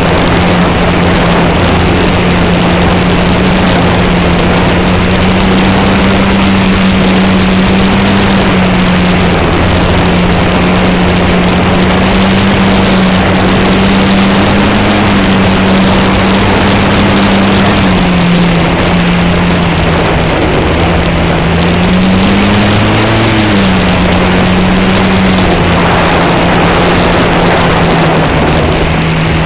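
Electric motor and propeller of an E-flite Cherokee RC plane heard from its onboard camera: a steady drone over heavy wind rush. The pitch dips a little about 18 seconds in and swells up and back down around 23 seconds as the throttle changes.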